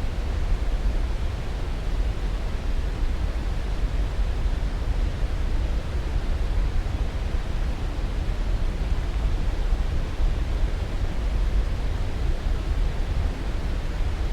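Steady, even rushing noise with its weight in the deep low end, unbroken and unchanging: a sleep-aid noise track.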